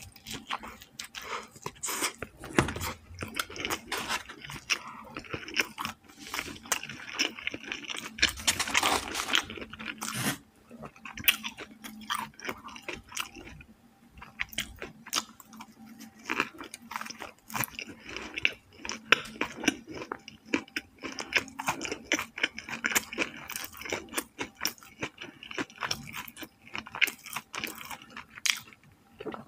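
Close-miked chewing and biting of a bread roll, with dense irregular crunches and mouth clicks throughout.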